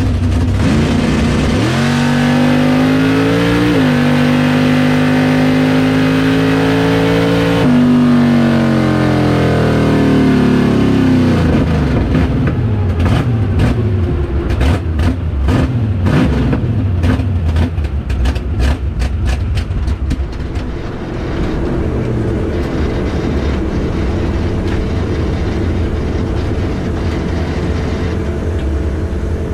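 Corvette drag car's engine at full throttle on a pass: revs climb, step at each gear change, then drop when the driver lifts after about eight seconds. The exhaust crackles and pops as it coasts down, then settles to a rough idle. The engine is running poorly: it leaned out on the top end and kept wanting to quit.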